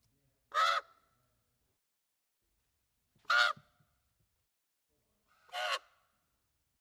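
Raven calling: three short, harsh caws spaced two to three seconds apart, the last one quieter.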